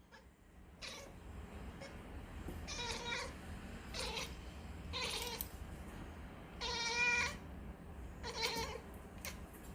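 Domestic cat giving a series of about six short, meow-like calls, the longest and loudest about two-thirds of the way through with a quavering pitch. These are the unusual sounds a cat makes on catching sight of a bird.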